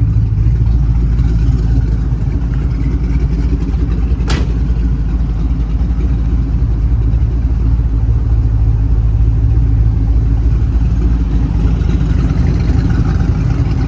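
Twin-turbo LS3 V8 idling steadily, with a single sharp click about four seconds in.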